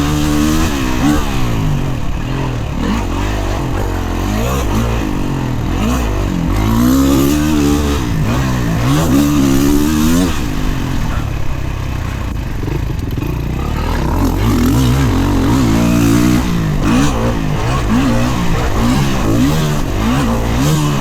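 Kawasaki KX450 motocross bike's single-cylinder four-stroke engine ridden fast on a track, revving hard and rolling off over and over, its pitch climbing and dropping many times.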